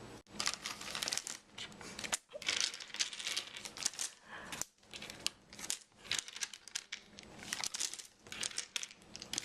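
Plastic zip-top bag crinkling in irregular bursts as peppermint candies are put into it.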